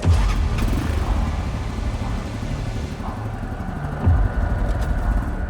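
Motorcycle engine running steadily as the bike rides, a low rumble that rises briefly about four seconds in.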